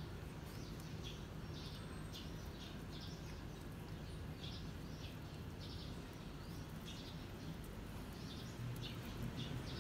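Small birds chirping in short, repeated high chirps over a low steady rumble that swells near the end.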